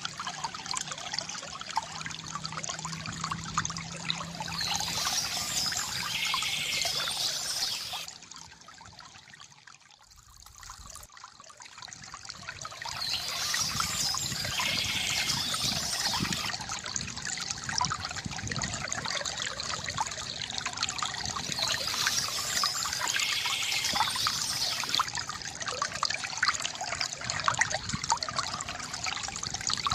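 Water trickling and pouring steadily from a bamboo fountain, fading away for a few seconds about eight seconds in before returning.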